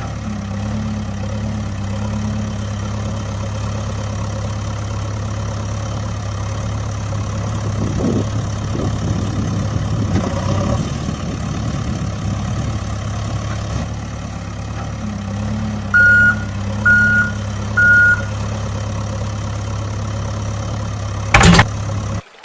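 Heavy vehicle engine running steadily, swelling a little partway through, with three short high beeps about a second apart near the end. A sharp click comes just before the sound cuts off.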